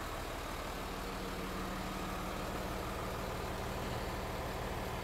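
2018 Hino 268 box truck's diesel engine idling steadily.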